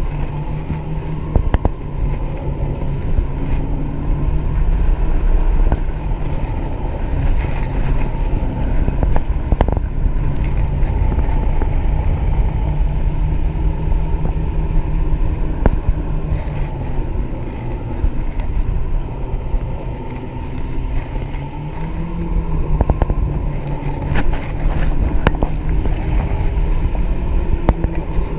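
Outboard motor of a Mako 19 Pro Skiff running underway, a steady engine drone over the rush of water and wind on the microphone. The engine note sags about twenty seconds in and picks back up a couple of seconds later.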